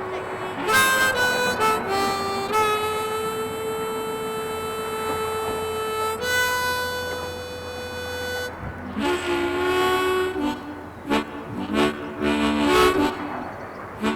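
Blues harmonica in background music: a few quick notes, then long held notes, then rhythmic chugging chords from about nine seconds in.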